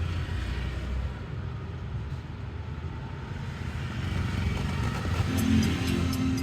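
Steady low rumble of a car, like road and drivetrain noise heard from inside a moving car.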